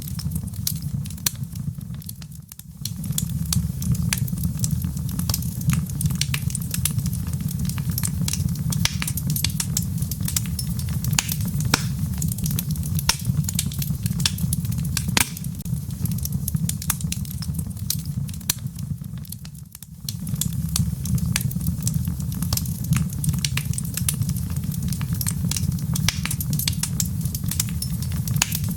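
Wood fire in a fireplace crackling and popping, with many small sharp pops over a steady low rumble. The rumble drops out briefly about two seconds in and again about twenty seconds in.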